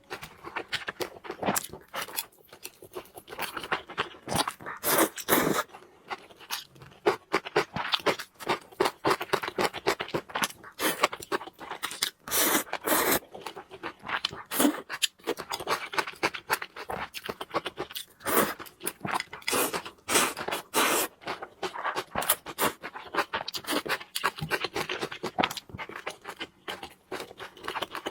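Close-miked eating sounds: a steady, dense stream of crunching and chewing with scraping noises.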